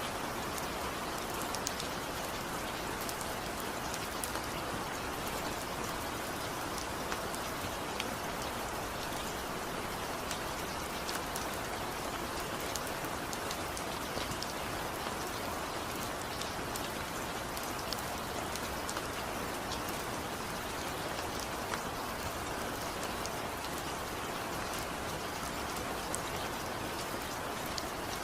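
Steady rainfall, an even hiss of rain with scattered individual drops ticking on a surface, and no thunder.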